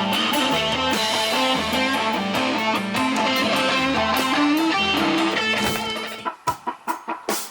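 A rock band playing with electric guitar, bass and drums. A little after six seconds in, the full sound drops out into a few short, separate staccato hits.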